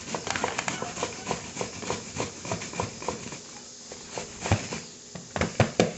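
Knife slicing through cabbage, the blade tapping a cutting board in a steady run of sharp knocks about three a second, with a few louder strikes near the end.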